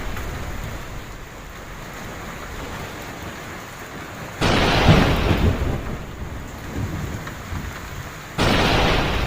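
Heavy rain falling steadily, with thunder: a sudden loud crack about four and a half seconds in that rolls into a low rumble, and another sudden crack near the end.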